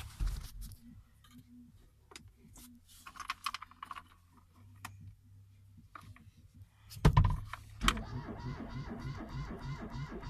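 Clicks and a jingle of keys, then about seven seconds in a loud second-long burst as the Fiat 126p's air-cooled two-cylinder engine is cranked and catches. It then settles into a steady, evenly pulsing run. This is its first start after standing unused for five years.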